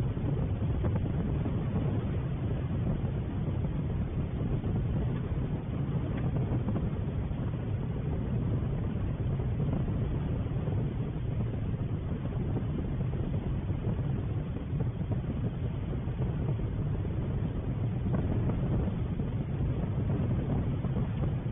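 Steady low rumbling outdoor background noise with no distinct events or calls.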